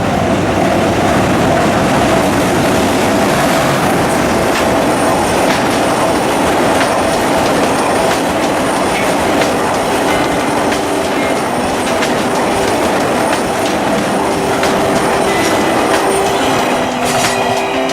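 Freight train of tank wagons hauled by an EH200 electric locomotive running past: a steady loud rumble of wheels on rail with clattering wheel clicks and a held high tone. Faint musical tones creep in near the end.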